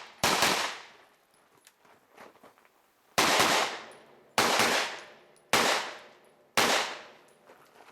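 Pistol-caliber carbine fired five times: one shot, a pause of about three seconds, then four shots about a second apart. Each shot is sharp and followed by a long fading echo.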